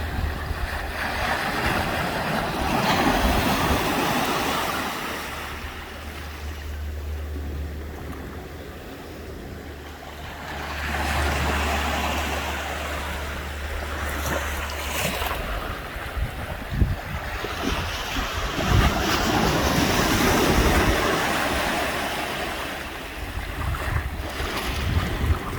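Ocean surf washing onto the beach, swelling and fading in slow surges about every eight seconds, with wind rumbling on the microphone.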